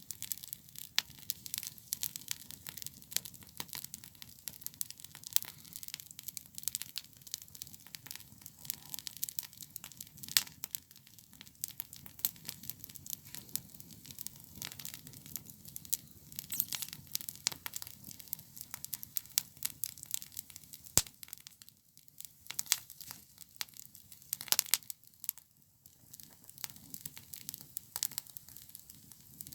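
Campfire burning, with dense, irregular crackles and pops over a low steady rush of flame; a single sharp pop stands out a little after two-thirds of the way through.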